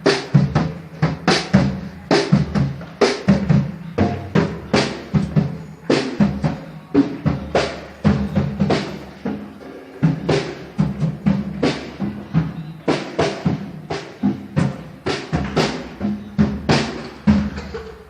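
A drum being hit repeatedly in a quick, steady rhythm, about three strikes a second.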